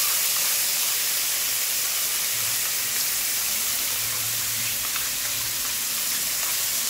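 Ground gongura paste sizzling in hot oil in a metal kadai: a steady frying hiss.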